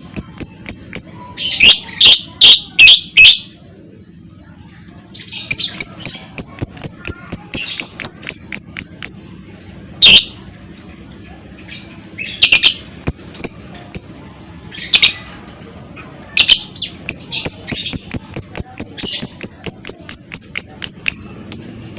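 Lovebird chattering: runs of rapid high chirps at about four a second, broken several times by short, harsh squawks.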